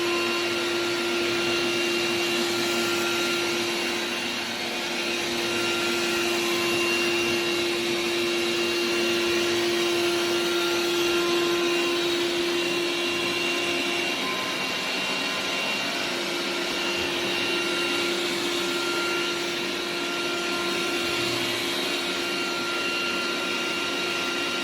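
Xiaomi Robot Vacuum X20 Pro running: a steady suction-motor whine over a broad fan hiss. The whine dips briefly about halfway through.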